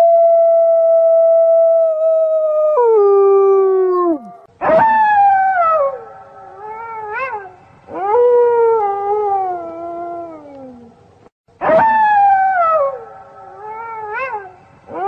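Wolves howling. One long howl is held on a steady pitch, then drops lower about three seconds in and fades out. Three more howls start sharply and slide down in pitch, with short rising yelps between them.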